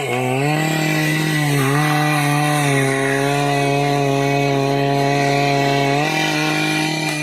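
Two-stroke petrol chainsaw running at high revs while cutting dry, hard teak. Its pitch sags briefly at the start and again about a second and a half in, then holds steady.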